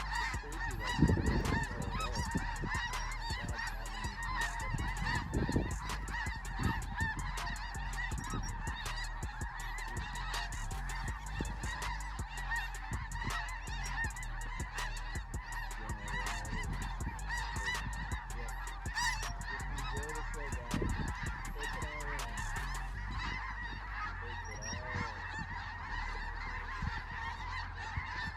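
A huge flock of snow geese calling overhead: a dense, unbroken chorus of high honking yelps from thousands of birds, over a low rumble.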